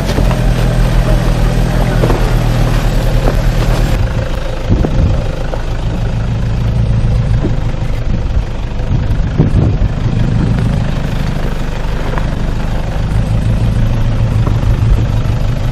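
Off-road 4x4's engine running steadily at low revs, with a few knocks and clunks as the vehicle works over rough trail.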